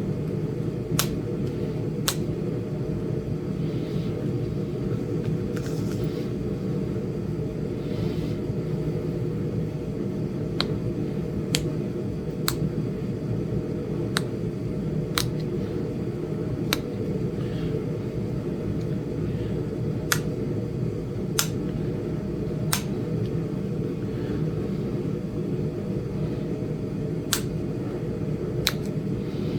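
Sharp, single clicks every second or two as small flakes snap off a Flint Ridge chert point being knapped. A steady hum of a running heater sits underneath.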